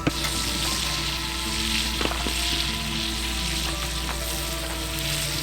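Burgers sizzling on a grill over a campfire: a steady frying hiss with a few faint pops, starting suddenly after a sharp click.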